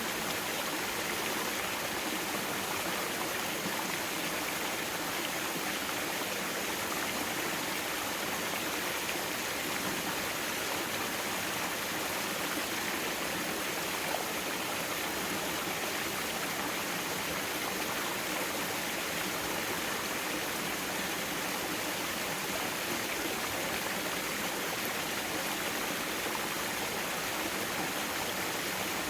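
Mountain valley stream flowing over rocks, a steady rushing of water without change.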